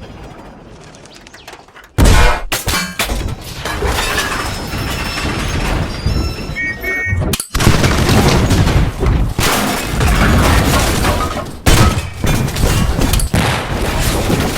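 Loud crash sound effects: a sudden heavy impact about two seconds in, followed by continuous smashing, breaking and booming. The noise drops out for an instant in the middle and comes back with further sharp hits.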